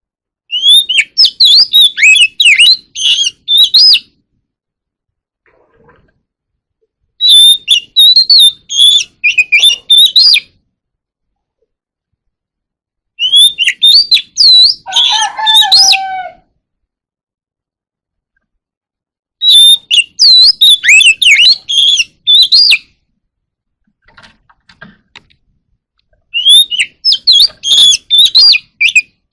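Oriental magpie-robin singing in five phrases of about three seconds each, separated by pauses of about the same length. Each phrase is a rapid run of varied high whistles and chirps, and the middle one ends on a few lower whistled notes.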